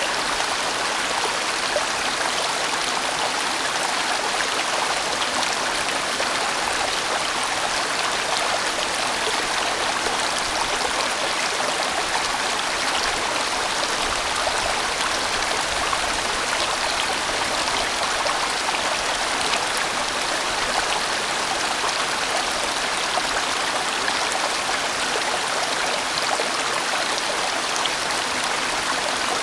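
A large mountain stream flowing and rushing steadily over rocks, an even, unbroken water sound.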